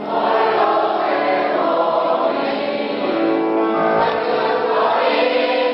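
Youth choir singing in harmony, holding sustained notes.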